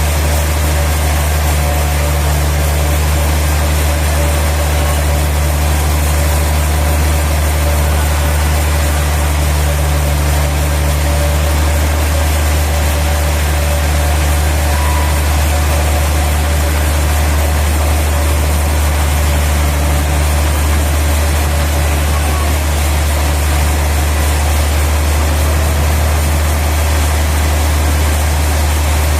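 Sawmill machinery running steadily with a low, even drone and no change in load.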